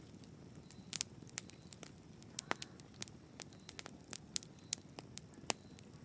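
Fire in a fireplace crackling: irregular sharp pops and snaps, a couple a second, over a soft low rush of burning.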